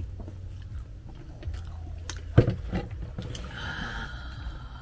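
People chewing crispy battered fried bananas, with small crunching clicks and a short thump about halfway through.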